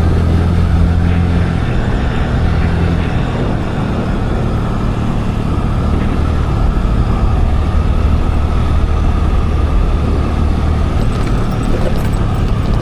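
Scooter engine running steadily under way, with a constant rush of road and wind noise; a few light clicks come in near the end.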